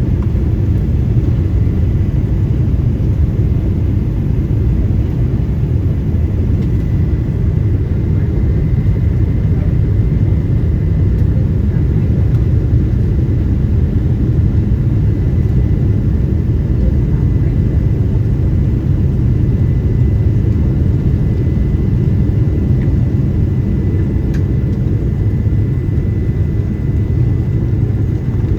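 Inside the cabin of a Boeing 777-200 airliner: a steady, loud low rumble of engine and airflow noise, with a faint high steady tone.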